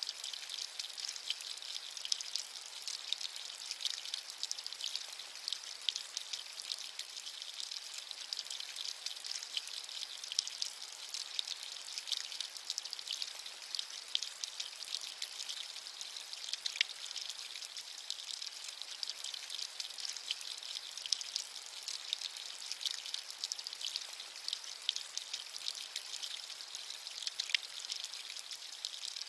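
Steady rain, a constant hiss thick with the small ticks of individual drops striking a surface.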